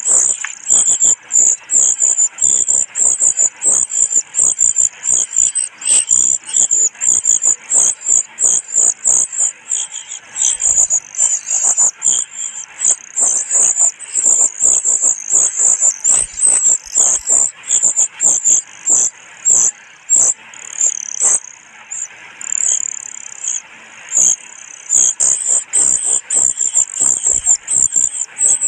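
A brood-parasite chick begging for food: a rapid, nearly continuous stream of very high-pitched begging calls.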